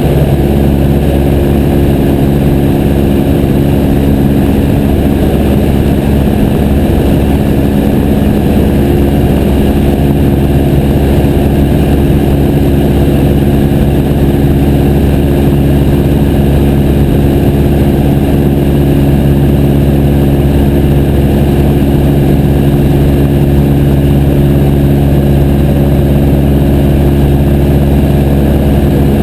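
Piper J3 Cub's engine and propeller running steadily at an unchanging speed, loud and close as heard from a camera mounted on the aircraft.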